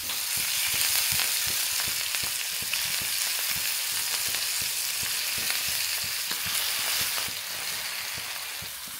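Masala-coated prawns sizzling steadily as they fry in hot oil in a pan, with frequent short clicks and scrapes of a spatula against the pan as they are stirred.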